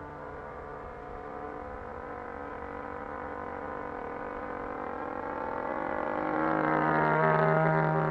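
RCGF 20cc two-stroke gasoline engine of a radio-controlled airplane running steadily, growing louder to a peak about seven seconds in and then easing off.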